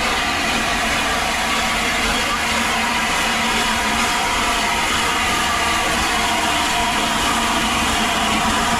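A railway train running, with a steady, even noise that holds at the same loudness throughout.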